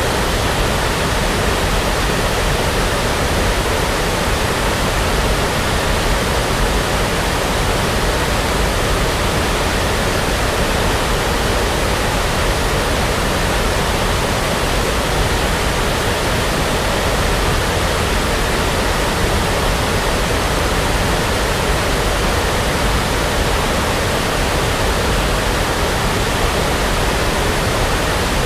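Brown noise played for sleep: a steady, unchanging rush of noise, heaviest in the deep low end.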